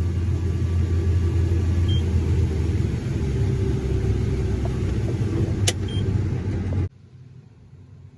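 Farm machinery's diesel engine running with a steady low rumble, with a sharp click about five and a half seconds in and two short faint beeps. The sound cuts off abruptly about seven seconds in.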